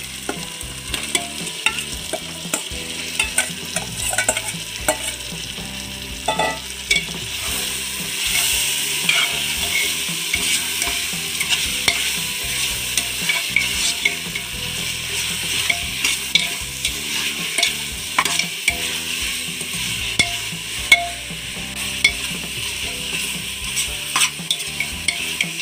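Marinated chicken sizzling in hot oil in a pressure cooker, with a metal ladle scraping and knocking against the pot as it is stirred. The sizzle grows louder about seven seconds in.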